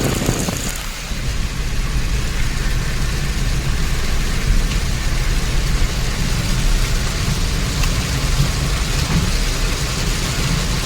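Heavy rain falling on a moving car, over the steady low rumble of the car driving on a wet road.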